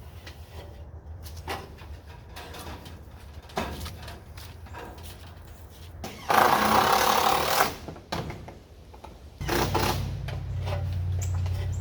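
Sheet-metal drip edge being handled and fastened: scattered knocks and clicks, with a loud rushing noise lasting about a second and a half near the middle. A low steady hum comes in about nine seconds in.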